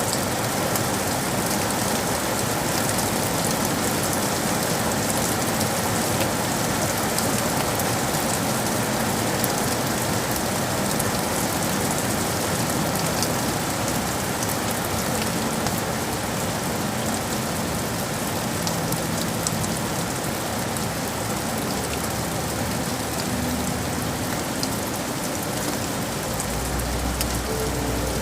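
Steady rain falling on city surfaces, an even hiss dotted with fine drop ticks. A low rumble comes in near the end.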